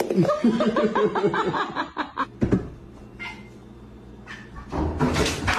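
A cat meowing in a quick series of short calls, followed by a quieter steady low hum.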